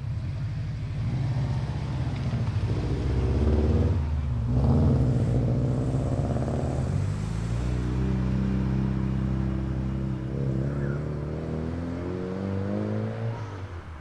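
Turbocharged four-cylinder rally-style car accelerating hard, engine pitch climbing, with short breaks for gear changes about four and seven seconds in, then a longer steady pull before it eases off near the end.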